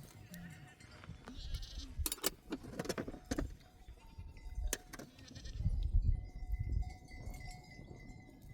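A flock of sheep bleating, with a few sharp clicks and knocks a couple of seconds in and a low rumble past the middle.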